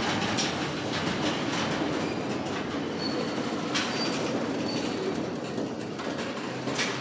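Freight train cars rolling past, their wheels clacking over the rail joints in a steady rumble, with a few brief, faint high wheel squeals near the middle.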